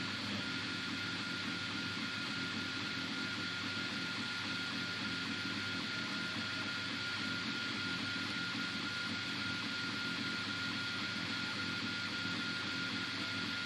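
Anet A8 3D printer running mid-print: an even whir of fan noise with a thin steady whine held throughout.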